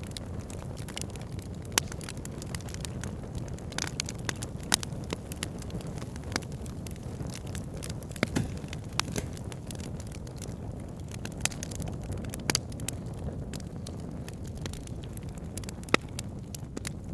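Wood fire burning in a fireplace: a steady low rumble of flames with frequent small crackles and a few louder pops spread through it.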